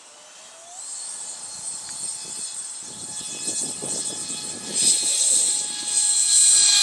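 Electric ducted-fan jet engines of an RC CRJ-200 model airliner: a steady high-pitched whine with rushing air noise, growing steadily louder.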